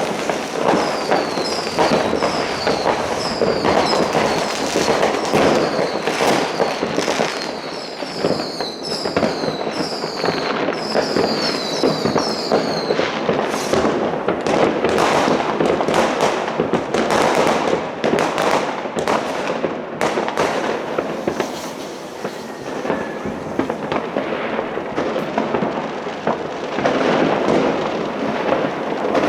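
Many fireworks and firecrackers going off at once: a dense, continuous crackle with overlapping bangs. A run of short high whistles repeats over and over for roughly the first twelve seconds.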